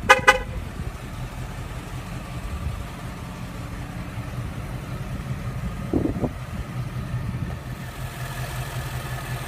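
2015 Ford Mustang GT's 5.0-litre Ti-VCT V8 idling steadily, with a short clack right at the start and a thump about six seconds in.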